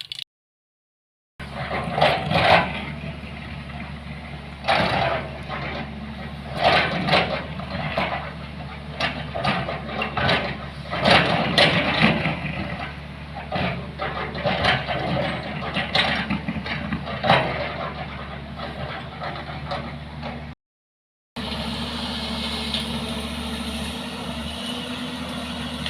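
A vehicle engine running steadily, with irregular louder surges of noise over it. The sound drops out completely for about a second shortly after the start and again near the end.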